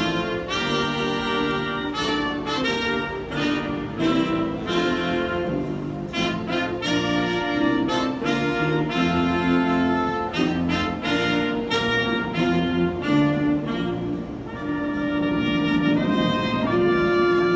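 Brass music with trumpets and trombones playing a melody in held notes that change every half second or so.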